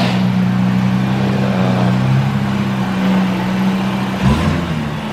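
Car engine running at a steady speed while driving, with a brief thump and a wobble in engine pitch about four seconds in.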